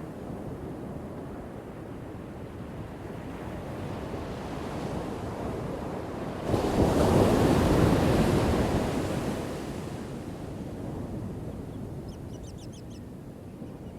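Ocean surf: a steady wash of waves, then one wave crashes suddenly about six and a half seconds in, stays loudest for a couple of seconds and fades back into the wash. A few faint high chirps near the end.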